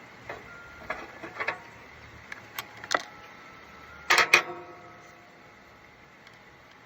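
Metal clinks and taps of a wrench on a mower's battery terminal bolt: scattered light ticks, then a louder cluster of clanks about four seconds in, some leaving a short metallic ring.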